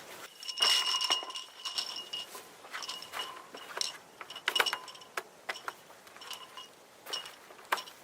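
Metal cookware and utensils clinking and rattling in a run of irregular strikes, the loudest about half a second in; several strikes ring on briefly with a bell-like tone.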